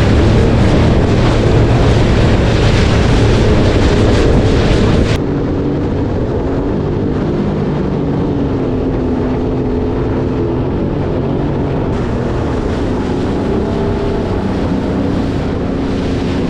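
Yamaha EX Deluxe jet ski running at speed, its engine hum under loud wind and water rush. About five seconds in it cuts abruptly to a quieter, duller engine drone whose pitch wanders.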